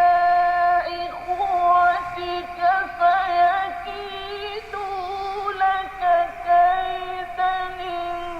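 A single high-pitched voice recites the Quran melodically. It opens on a long held note, then moves through shorter phrases full of wavering ornamental turns.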